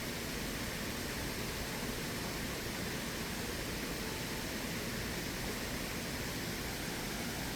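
Steady rush of a valley stream's flowing water, even and unbroken.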